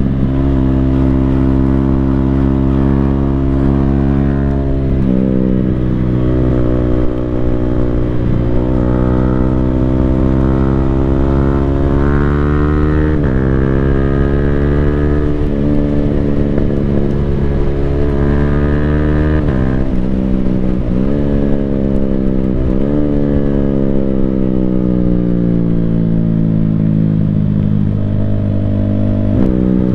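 Yamaha Sniper 155R's single-cylinder 155 cc engine running through a full Akrapovic exhaust while riding. The engine note changes pitch abruptly several times as gears are shifted with the quick-shifter. Near the end it falls slowly for about five seconds as the bike slows, then picks up again.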